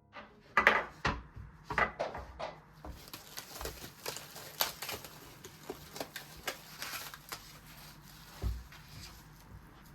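Kitchen food-preparation handling: irregular knocks, clicks and rustling of utensils and ingredients on a worktop, loudest in the first two seconds.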